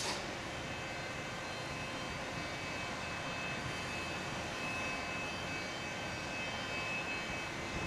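A train running through the station: a steady mechanical drone with several high, unchanging whining tones over it.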